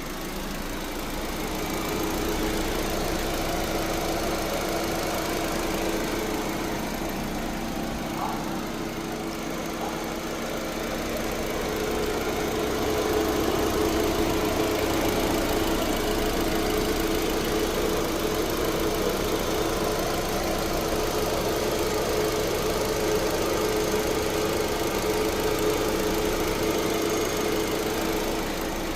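Hyundai car engine running steadily with a rough sound, which the uploader puts down to a variable valve timing (VVT) fault.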